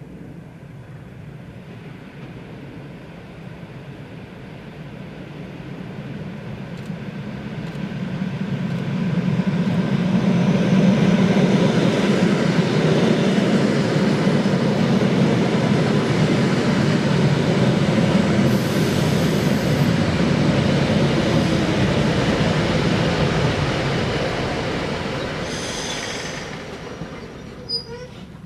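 An ЭП2Д electric multiple unit passes: its rumble and wheel noise swell over several seconds, stay loud for about a quarter of a minute, then fade. Brief high-pitched wheel squeals come about two-thirds of the way through and again near the end.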